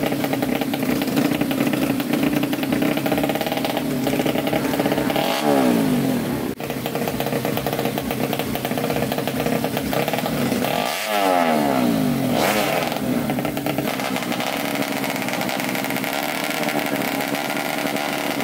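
Tuned 130cc Yamaha Jupiter drag-bike engine with a JRM racing exhaust running loudly at a fast idle, revved up twice, about five and eleven seconds in.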